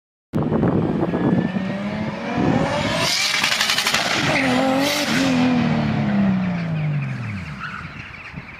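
Car engine revving, its pitch rising and then falling steadily away over the last few seconds. It starts suddenly and cuts off suddenly.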